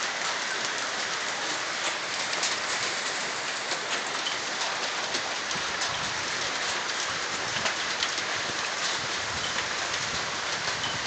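Heavy hail the size of quail eggs pelting down: a dense, steady hiss of the downpour with many sharp clicks of individual hailstones striking.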